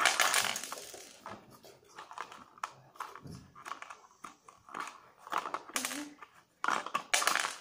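Paper and plastic packaging of a Lego set being handled and rustled, in short crinkling bursts, loudest at the start and again near the end.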